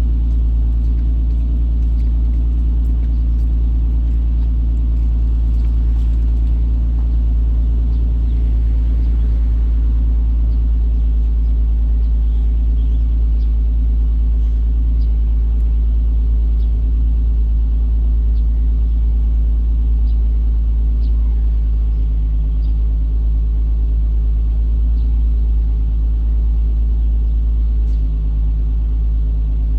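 Infiniti G35's 3.5-litre V6 breathing through a custom 2.5-inch exhaust, idling steadily with a deep rumble during its cold-start warm-up.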